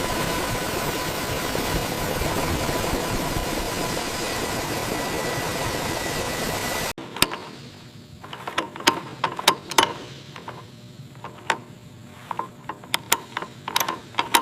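A steady mechanical drone with a faint whine cuts off abruptly about seven seconds in. After it come scattered sharp clicks and taps, like hand tools or a ratchet working on metal.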